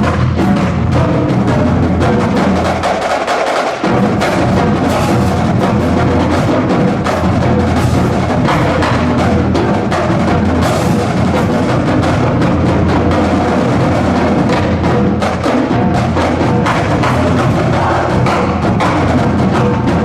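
High school marching band playing a loud, full arrangement of a rock song, with drums and percussion prominent. The low end briefly drops out about three seconds in.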